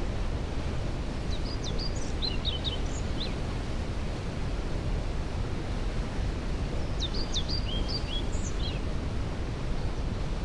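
Waterfall rushing steadily in the background, its noise weighted to the low end. A songbird sings two short phrases of quick high notes over it, about a second in and again about seven seconds in.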